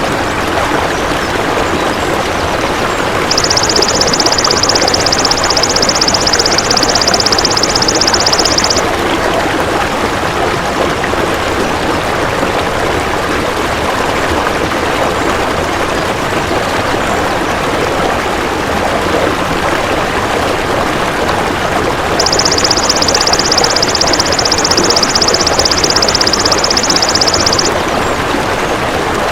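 Golden grasshopper (belalang emas) stridulating: a rapid, high, pulsed buzz lasting about five seconds, heard twice. Underneath runs a steady rushing noise like running water.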